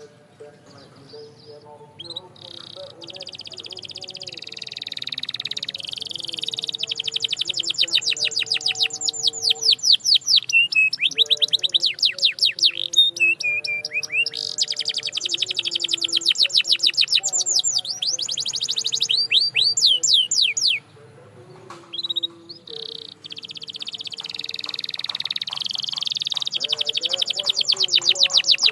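Canary singing: long, fast trills of rapidly repeated high notes in extended phrases, broken by two short pauses.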